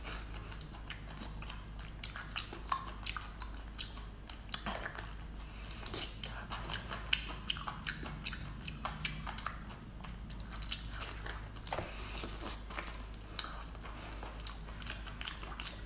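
Biting and chewing a whole cooked octopus, its head full of ink: a steady, irregular run of short mouth clicks and bites.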